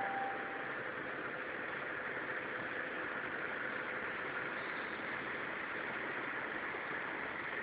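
Kertajaya economy train's coaches rolling slowly past the platform on arrival: a steady, even rumble and hiss of wheels on the rails.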